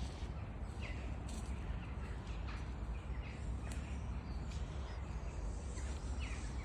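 Wild birds calling, with crows cawing among scattered short calls, over a steady low rumble.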